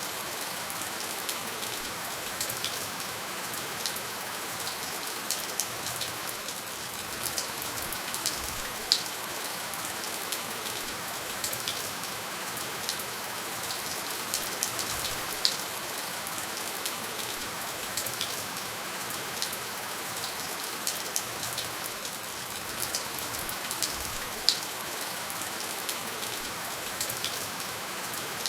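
Steady rainfall with no thunder: an even hiss with scattered sharp drips and drop impacts, a few louder single drops standing out now and then.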